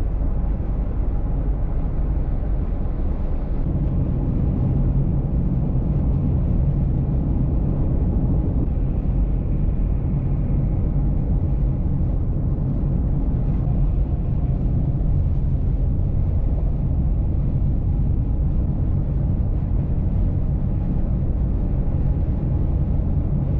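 Car driving at a steady speed: a low, even rumble of road and engine noise, with a faint steady hum joining it a few seconds in.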